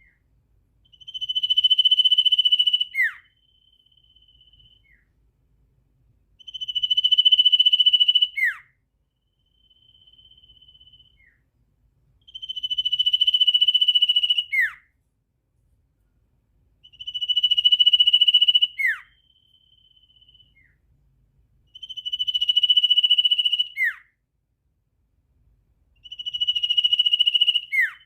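A bird calling in a regular loop: a long, steady, high whistle of about two seconds that ends in a quick downward slur, repeated six times about every five seconds. A fainter short whistle falls in each gap.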